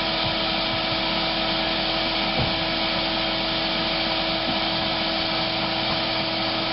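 Vacuum running steadily as the beekeeper sucks honey bees out of a wall cavity: an even rushing hum with a constant whine.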